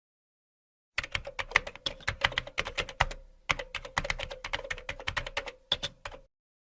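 Rapid typing on a keyboard: a quick flurry of sharp clicks over a faint steady hum, starting about a second in, pausing briefly in the middle and stopping shortly before the end.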